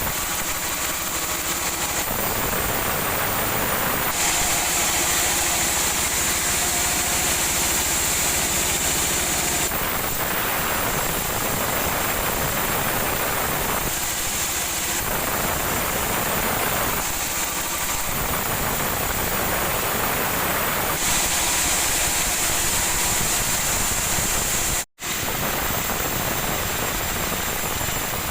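Sawmill machinery running loudly and steadily while sawing sonokeling (Indian rosewood). The noise shifts in character every few seconds and drops out completely for a moment about 25 seconds in.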